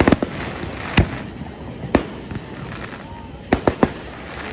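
Fireworks show: shells bursting with sharp bangs, about one a second, then a quick run of three bangs near the end.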